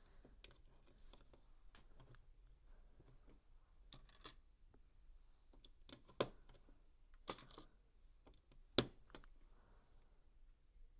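Plastic LEGO bricks clicking and tapping as pieces are handled and pressed together, in scattered small clicks with a few sharper snaps, the loudest two about six and nine seconds in.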